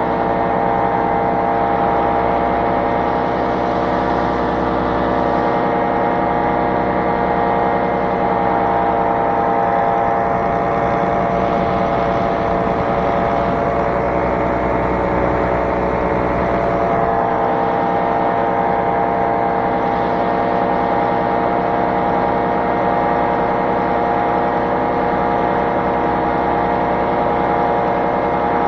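Small aircraft engine running steadily under power in flight, its pitch wavering slightly around the middle as the throttle shifts.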